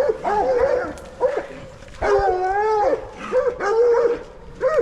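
Two coonhounds baying in repeated short, bending bawls, their voices overlapping, with one longer drawn-out bawl about two seconds in: hounds barking treed on a raccoon.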